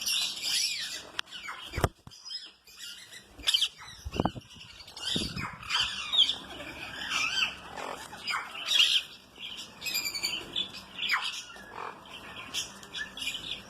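A mixed flock of small aviary birds chirping and squawking over one another in a continuous overlapping chatter, with a few brief low thumps.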